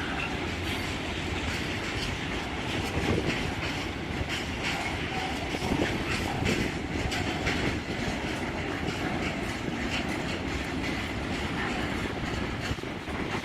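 Freight train wagons rolling past steadily, wheels clattering over the rail joints in a run of frequent clicks.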